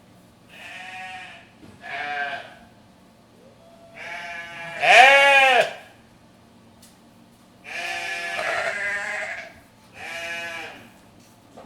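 Goats bleating: about five separate calls with short gaps between them, the loudest one about halfway through.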